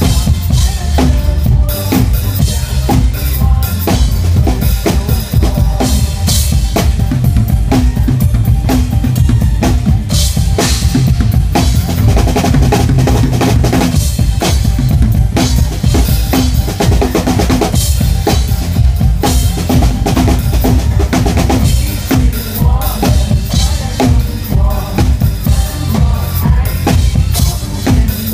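Drum kit played live in a steady pop beat, bass drum and snare hits driving over a backing track of pop music.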